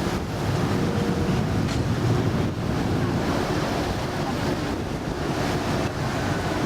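Motorboat under way: a steady engine drone under the rush of water against the hull, with wind buffeting the microphone.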